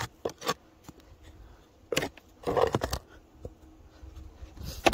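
Short scrapes and knocks while dead bees are cleared from a beehive entrance: a few brief strokes about two seconds in and again near the end.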